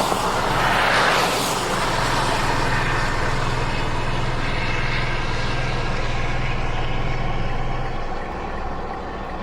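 Motor vehicle running, with a steady low engine hum under a rushing hiss that swells twice near the start; the hum drops away about a second before the end.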